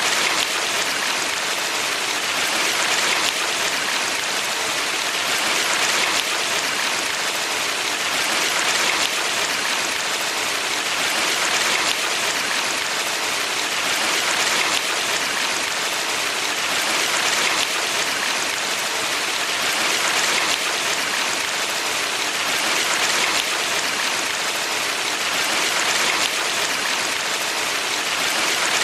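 Valley stream water running steadily, a continuous rushing that swells slightly about every three seconds.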